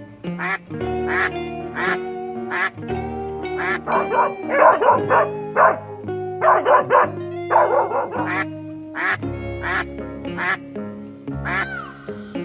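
Duck quacking in two rapid bursts, about four seconds in and again about six and a half seconds in, over background music with a steady beat.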